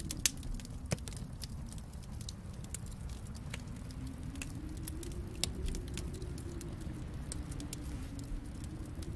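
Wood fire in a fireplace crackling, with scattered sharp pops and snaps over a low steady rumble; the loudest pop comes just after the start.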